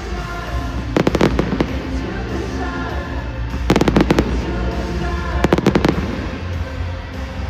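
Fireworks going off in three rapid crackling volleys, each lasting about half a second, over background music.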